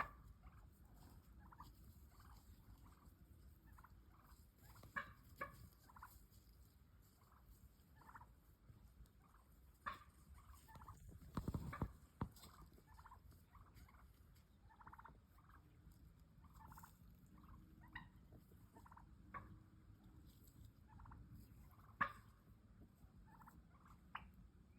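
Wild turkey clucks and purrs: short, soft notes repeated at irregular intervals, with a few sharper, louder clucks about 5, 10, 12 and 22 seconds in.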